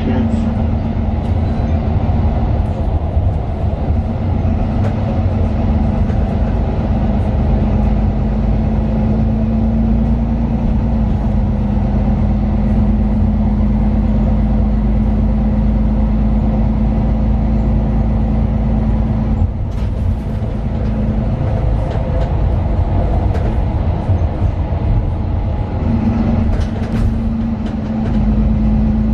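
Interior sound of a Mercedes-Benz Citaro 2 city bus under way: its OM 936 inline-six diesel and ZF Ecolife automatic gearbox running with a deep steady rumble and a steady hum. The hum drops out about twenty seconds in and comes back some six seconds later.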